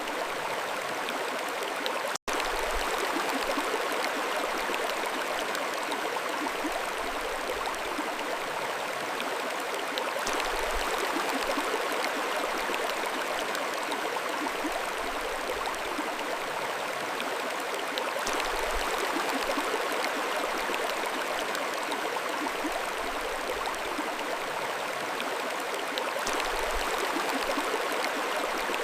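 Mountain stream running steadily over stones, a dense, even rush of water. The sound drops out for a split second about two seconds in.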